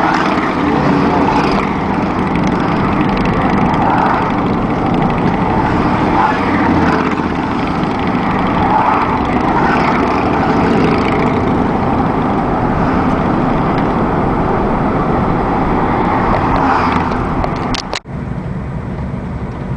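Motorcycle on the move, its engine noise mixed with heavy wind rush. The noise cuts out for an instant near the end and comes back a little quieter.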